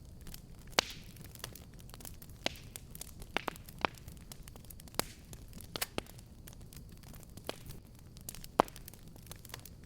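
Wood fire crackling in a fireplace: irregular sharp pops and snaps over a low steady rumble of burning, with the loudest pops about a second in and near the end.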